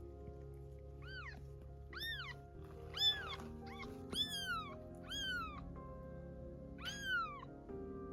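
Newborn kitten mewing: six short, high-pitched mews, each rising then falling, about one a second with a pause near the end. Background music with held tones plays underneath.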